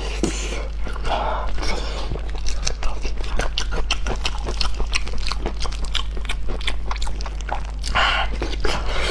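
Close-miked eating of braised pork: biting into the soft skin and meat and chewing, heard as a dense run of quick mouth clicks and smacks.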